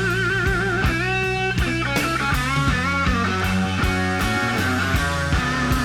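Live slow blues band: electric guitar fill of sustained bent notes with wide vibrato, answering the vocal line, over bass and drums.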